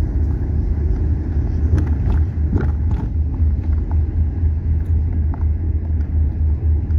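A car driving, heard from inside the cabin: a steady low road and engine rumble.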